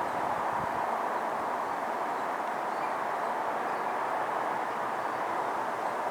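A train running past on the line: a steady rushing noise of wheels on rail that holds an even level throughout.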